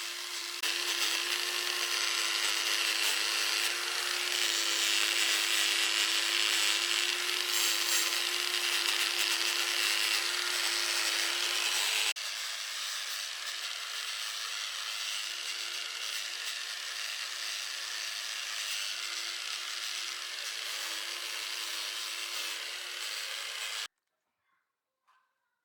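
A handheld power tool running steadily with a constant motor hum under a harsh rasping of abrasive or cutter against the workpiece. It is louder for the first half, shifts abruptly midway, and cuts off suddenly near the end.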